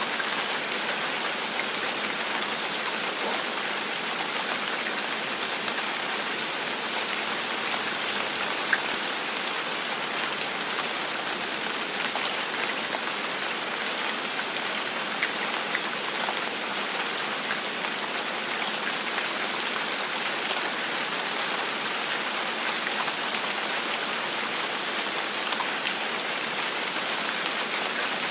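Steady rain falling on a surface, an even hiss with many small drop ticks throughout and one slightly louder drop about nine seconds in.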